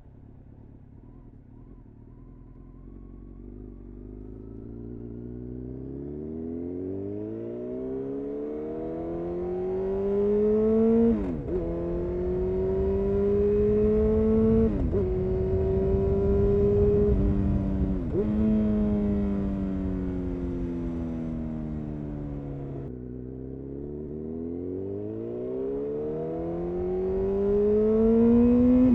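Honda CBR929RR Fireblade's inline-four running through an Erion Racing full exhaust, revs climbing hard under acceleration and dropping sharply at each upshift, about 11, 15 and 18 seconds in. It eases off around 20 seconds, then pulls up through the revs again to another shift at the end.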